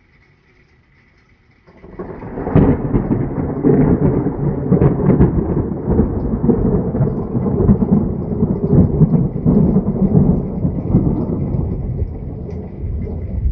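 Thunder: a sudden crack about two seconds in, followed by a long rolling rumble with crackles that eases off near the end.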